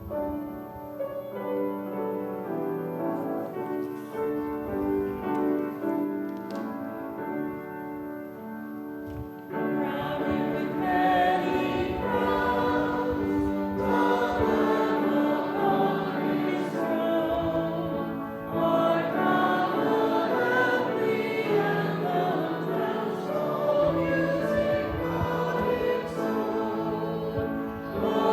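A church congregation singing a hymn with keyboard accompaniment. The keyboard plays the opening alone for about the first nine seconds, then the voices come in together and the sound grows louder.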